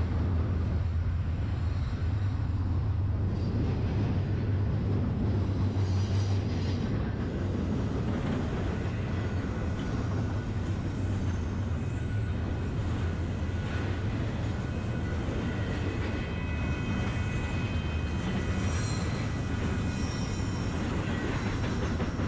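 Long freight train moving slowly around a tight curve: a steady low rumble, with faint high-pitched wheel squeal coming in about halfway through.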